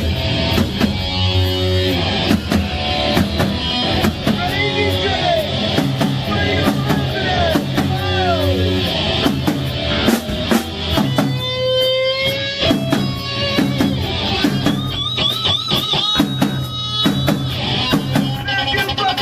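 A rock band playing with drum kit, bass and lead guitar. The lead guitar bends notes up and down and holds notes with wide vibrato, most clearly in the second half.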